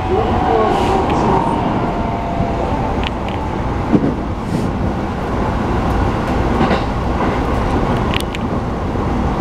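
Interior running noise of a Keikyu New 1000 series electric train: a steady rumble of wheels on rail. A faint whine from its Mitsubishi IGBT-VVVF traction inverter fades out within the first second, and a few sharp clicks come from the track.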